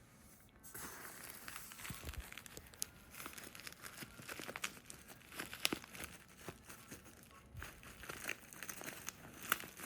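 Packaging crinkling and rustling as it is handled and unwrapped, with many small irregular clicks and crackles.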